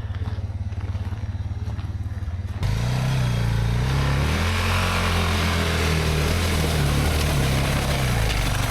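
Motorcycle engine running steadily at low revs, then about two and a half seconds in it suddenly gets louder and its pitch rises and falls under throttle, as the fully loaded bike works up a steep hill.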